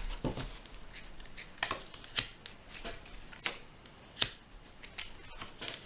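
Tarot cards being handled: about half a dozen separate short card snaps and taps, spaced irregularly.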